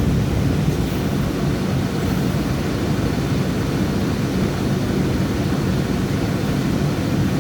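Steady engine and road noise of a city bus being driven, a constant low rumble.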